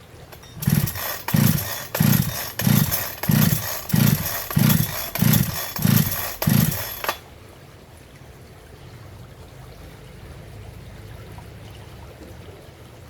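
Two-stroke chainsaw engine revved in about ten short, evenly spaced bursts, then cut off suddenly about seven seconds in.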